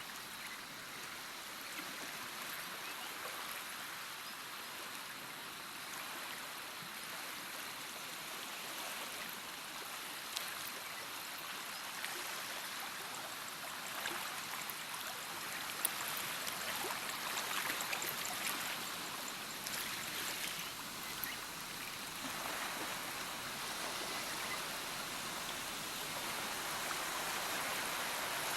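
Running water, a steady rushing hiss with small irregular splashes and trickles through it, and a couple of sharp little ticks.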